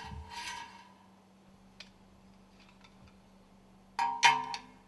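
Metal parts of a stuffing box clinking, each strike ringing briefly. There is one clink at the start, light ticks in the middle, and two or three louder clinks in quick succession about four seconds in, over a faint steady low hum.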